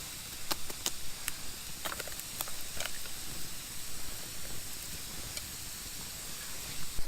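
A campfire cooking setup giving a steady hiss, with scattered sharp crackles and pops, most of them in the first three seconds.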